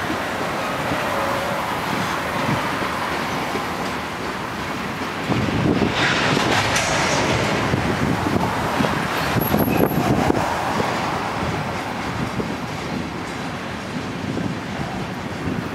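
Freight train of Canadian National covered hopper cars rolling slowly past, a steady rumble of steel wheels on the rails, swelling and brightening about six seconds in. Wind gusts on the microphone.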